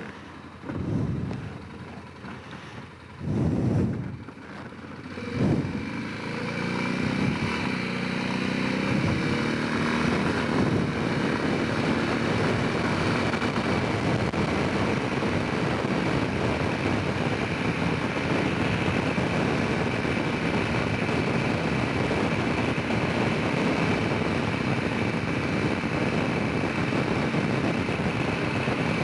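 Honda Rincon 650 quad's single-cylinder engine under way. It surges in a few short low pulses at first, then picks up about six seconds in and runs on steadily at cruising speed.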